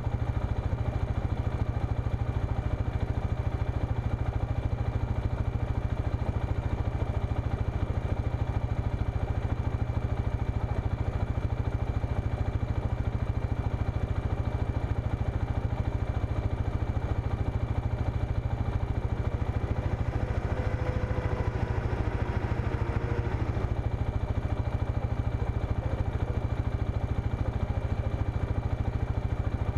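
Engine idling steadily close to the microphone, with a fast low pulse. From about two-thirds of the way through, a second engine is heard revving for a few seconds as the Mitsubishi Montero climbs the sand hill.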